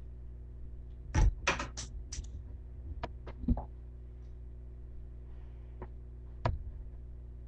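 A quick run of four sharp clicks or knocks about a second in, then scattered single clicks, over a steady low electrical hum.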